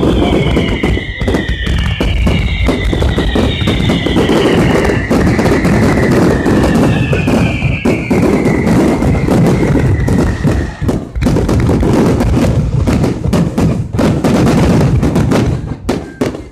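Fireworks display going off in a dense, rapid barrage of booms and crackles. Several high whistling tones slide slowly downward over the first ten seconds or so.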